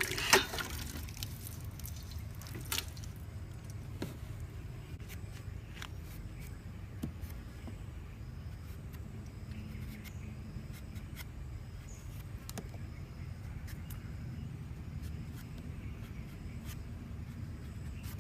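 A sharp knock just after the start, then a few faint clicks and drips over a low steady rumble: small handling sounds while food is being prepared.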